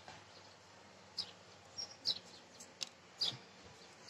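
Birds chirping in the background: a few short, high chirps scattered through, some falling in pitch, over a faint steady low hum.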